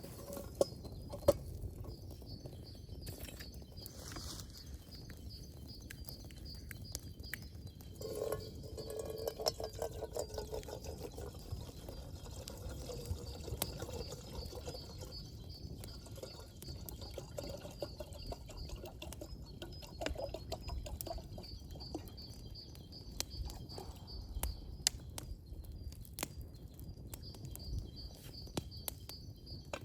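Birds chirping in the woods, with a high rapid trill repeating through most of the stretch. Scattered sharp clicks and knocks over it, the loudest two near the start.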